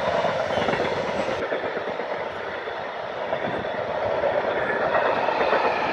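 Covered freight wagons of a freight train rolling past close by, their steel wheels running steadily and loudly on the rails, with a faint whining tone that comes and goes.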